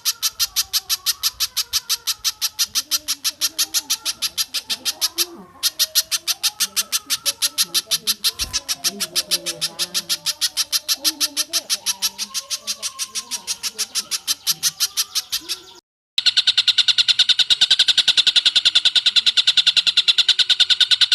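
Bird-song training recording of spiderhunter and kingfisher calls: rapid, evenly repeated call notes, about five a second. About 16 s in the sound cuts out for a moment, then a different, slightly faster run of calls follows.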